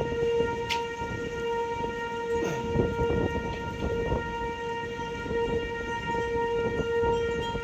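An ASC T-121 outdoor warning siren sounding a steady tone that swells and fades slightly in loudness, with wind buffeting the microphone underneath.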